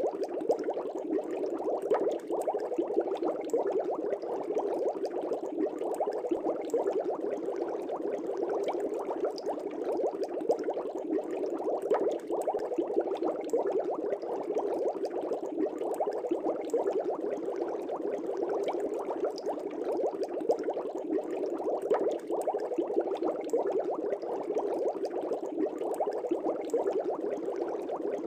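Steady aquarium bubbling: a stream of air bubbles rising and breaking at the surface of a fish tank, a dense even burble with small pops.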